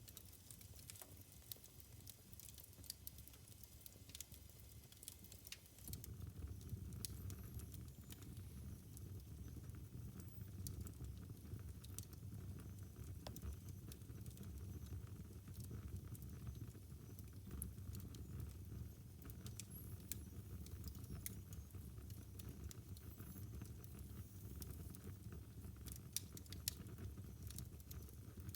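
Wood fire in a fireplace crackling, with scattered small sharp pops over a low steady rumble that grows louder about six seconds in.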